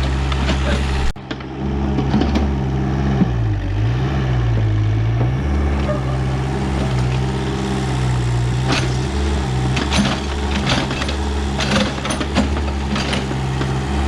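Backhoe engine running steadily while digging soil, its pitch dipping and recovering about four seconds in as it takes load, with scattered knocks later on.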